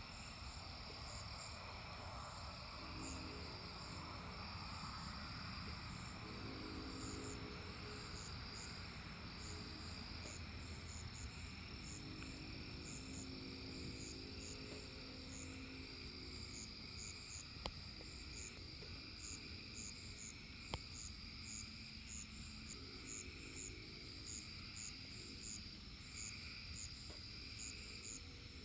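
Crickets and other insects calling steadily, including a high pulsing chirp. Under them, a distant Nathan Airchime K5LLA five-chime locomotive horn sounds a chord in several long blasts through the first half, and once more near the end. Two brief clicks come in the middle.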